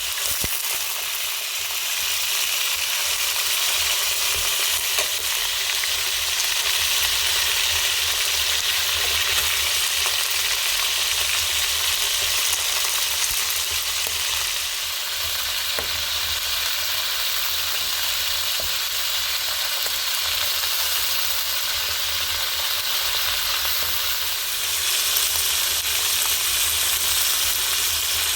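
Chicken stew sizzling in a pot over a wood fire: a steady, dense hiss with a few faint ticks.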